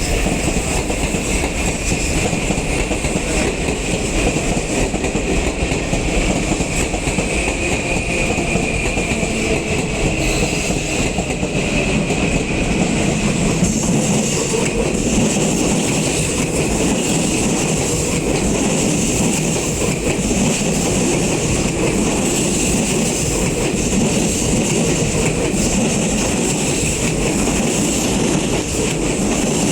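Electric commuter train running past on the rails: a steady, loud running noise of wheels with a high, steady whine over it.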